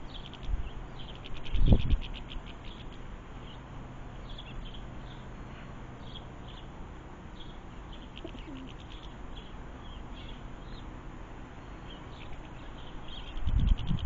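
Small garden birds chirping in short, high, repeated notes, with a loud low rumble about two seconds in and another starting near the end.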